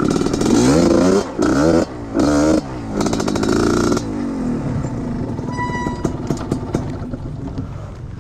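Trail motorcycle engine revved in short bursts, its pitch rising and falling, for about four seconds, then running lower and steadier.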